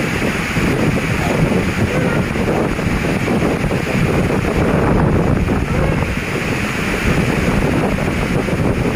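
Strong storm wind blowing hard over the microphone: a loud, steady rushing buffet.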